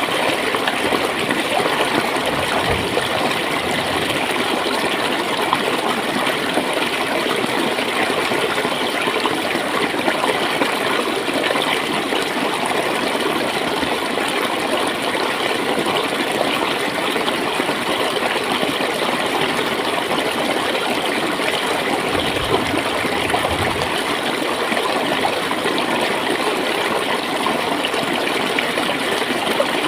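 Steady flowing water: a stream running and gurgling, with brief low surges now and then.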